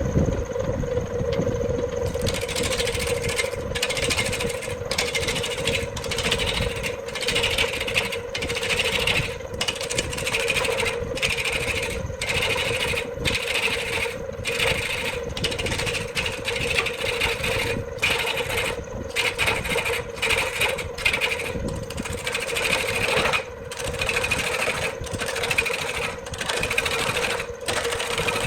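An electric woodworking machine running with a steady hum. From about two seconds in, a rasping cutting sound comes and goes roughly once or twice a second as wood is worked.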